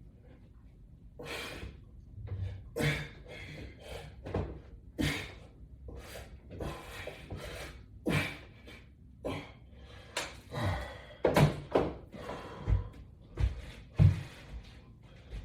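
Repeated short knocks and thuds, roughly one a second and coming a little faster near the end, from a resistance-band workout on a wall-mounted latch bar attachment system.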